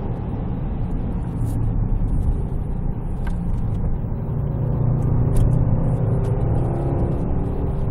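2014 Range Rover Sport's supercharged 5.0-litre V8 driving along, a steady low rumble with a faint engine note coming through in the second half.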